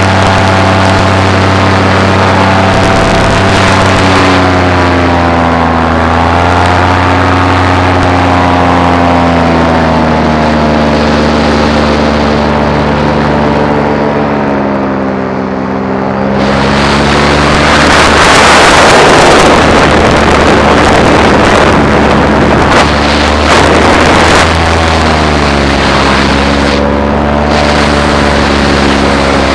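Paramotor engine and propeller running in flight, the pitch rising and falling as the throttle is worked. It eases off about halfway through, then comes back up with a loud rushing noise for a few seconds before settling to a steady drone.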